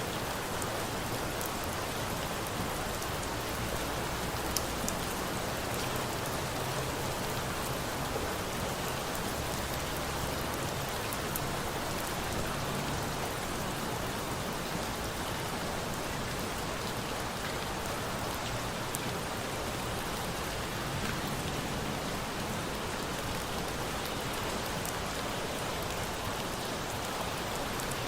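Steady rain falling, an even hiss with a few sharp crackles now and then, as from a campfire burning in the rain.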